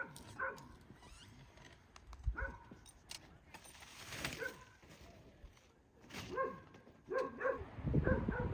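A dog barking in short, separate barks several times, with a low rumble coming in near the end.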